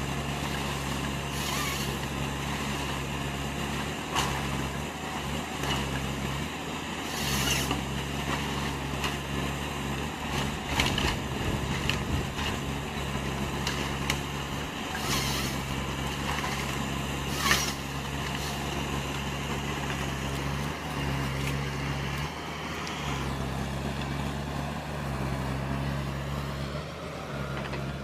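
Engine of a heavy wood-processing machine running steadily, with several short hissing bursts over it.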